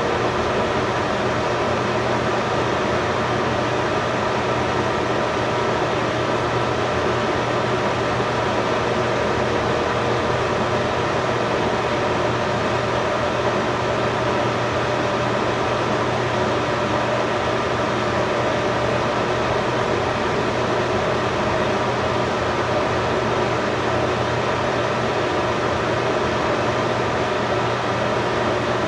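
Steady machine hum with fixed tones over an even hiss, unchanging throughout.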